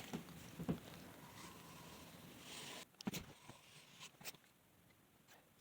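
Faint scraping and a few light taps of a thin wooden stick scraping squeezed-out wet wood glue off a clamped board glue-up.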